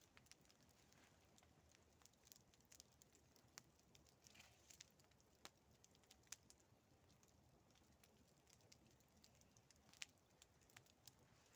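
Campfire crackling faintly, with irregular sharp pops and snaps of burning wood.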